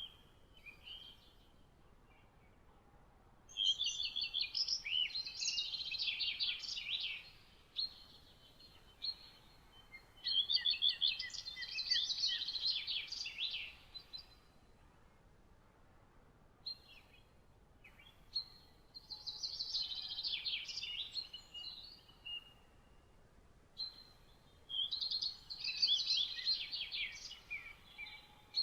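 A songbird singing four rapid, warbled phrases, each a few seconds long, separated by pauses of several seconds, over a faint steady background hiss.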